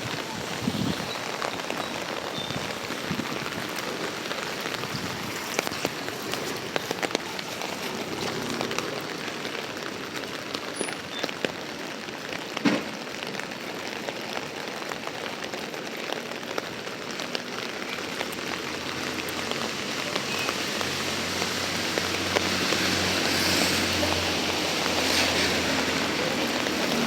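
Steady rain falling and pattering on surfaces, with scattered sharp drop hits. In the second half a low hum builds up under it and grows louder.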